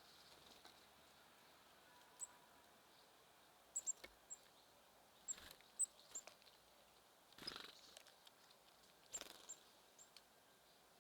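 Faint, short, high-pitched chirps of small songbirds, scattered irregularly, with a few soft rustles in between.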